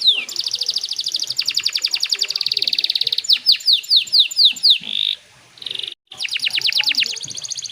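Domestic canary singing: fast rolling trills of rapidly repeated notes and a run of downward-sweeping whistles about three a second. The song breaks off for about a second just past halfway, then the trill resumes.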